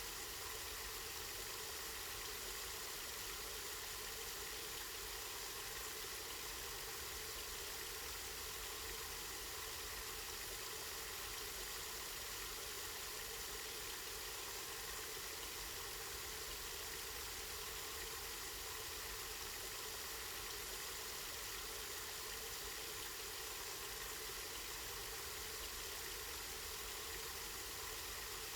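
Water running steadily from a spring, a constant even rush with no change.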